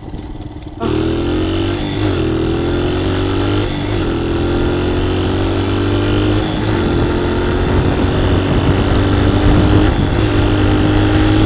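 Small dirt bike engine accelerating up through the gears: it starts loud about a second in, and its pitch climbs, dips briefly at each of about four upshifts, then climbs again.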